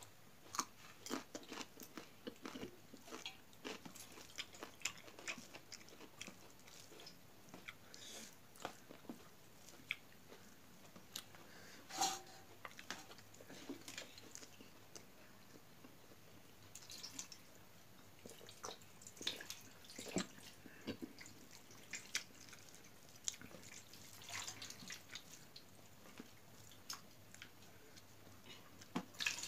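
Faint chewing and biting of food eaten by hand, with many small irregular crunches and mouth clicks.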